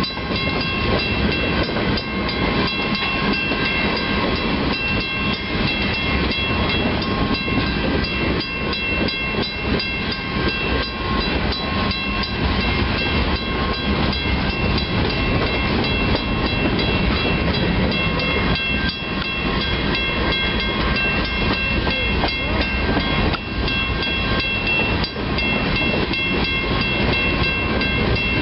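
Freight train of grain hopper cars rolling steadily past, its wheels clattering over the rail joints in a dense run of knocks. Several steady high-pitched tones ring over the clatter throughout.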